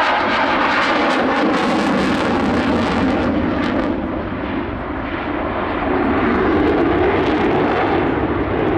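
Jet noise from an RAF Eurofighter Typhoon's twin Eurojet EJ200 engines as it flies past, loud and steady; the high hissing edge fades about four seconds in, leaving lower jet noise that swells again later.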